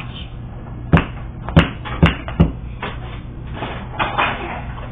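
A run of sharp thumps, four close together over about a second and a half, then a few softer ones, over a low steady hum.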